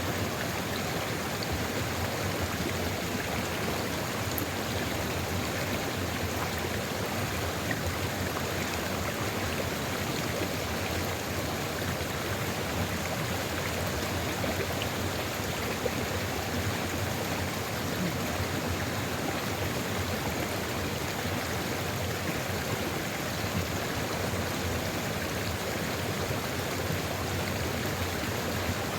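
Steady rushing and babbling of a flowing river, even throughout, with no change in level.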